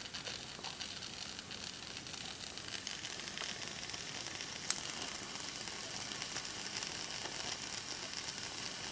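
Mamod TE1A model steam tractor warming up: a steady sizzling hiss of steam escaping as boiler pressure builds, with faint crackling throughout. One sharp click comes about halfway through.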